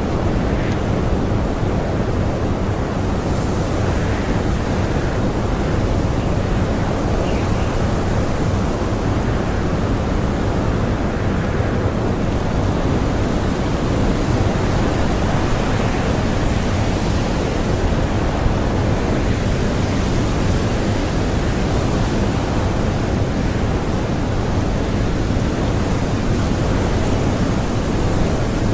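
Blizzard wind blowing steadily, a dense, even noise strongest in the low range.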